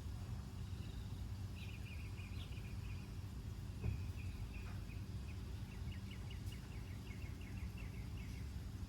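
A small bird chirping in runs of short, quick repeated notes over a steady low background rumble. There is a soft bump about four seconds in.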